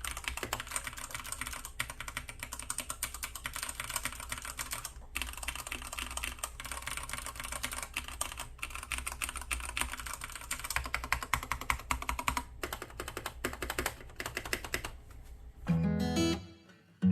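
Fast, continuous typing on a Keychron C2 mechanical keyboard with brown switches, a dense run of key clicks. Near the end the typing stops and strummed acoustic guitar music begins.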